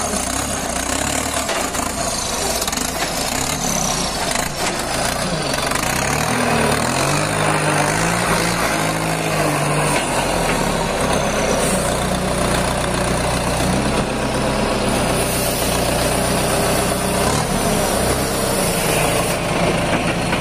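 Heavy diesel engine running steadily, its pitch rising and falling a few times in the middle.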